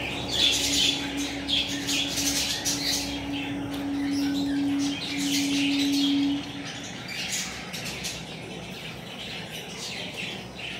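Small birds chirping repeatedly in quick, irregular calls. A steady low hum underlies the first two-thirds and stops about six and a half seconds in.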